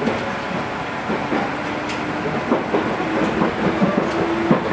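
JR West 221 series electric multiple unit running at speed, heard from inside the passenger car: a steady rumble and low hum, with the wheels clicking over rail joints several times.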